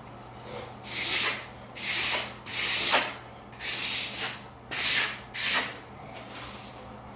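A float scraping across damp dry-pack shower pan mortar in a series of repeated strokes, about one every three-quarters of a second, smoothing and packing the mud bed.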